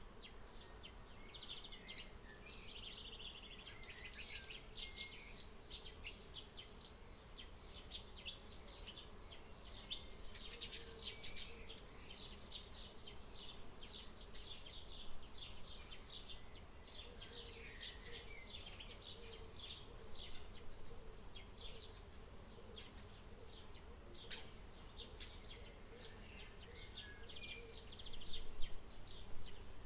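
Outdoor field ambience: small birds chirping in quick, dense, overlapping calls, over a faint, wavering insect buzz. The sound grows louder near the end.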